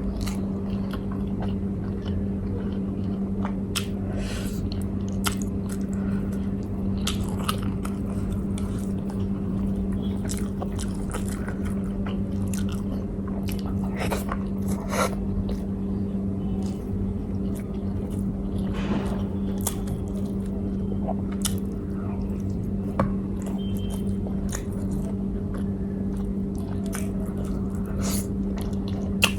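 A person chewing and biting food close to the microphone, with scattered small crunches and mouth clicks, while eating a grilled-chicken meal. A steady low hum runs underneath.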